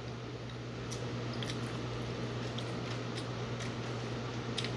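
A person chewing a mouthful of fresh lumpia, soft wet chewing with a few faint clicks, over a steady low hum.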